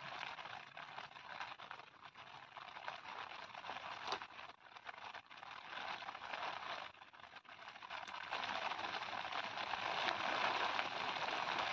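Steady rain hissing on grass and vegetation, growing louder in the last few seconds.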